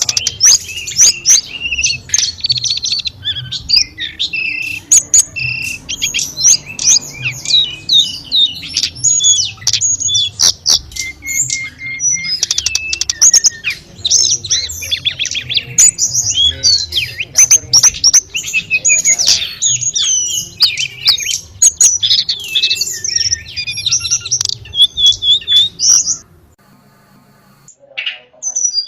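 A tledekan gunung singing a fast, varied song of chirps, whistles and trills, over a low steady rumble. The song and rumble break off about two seconds before the end, and the song starts again just at the close.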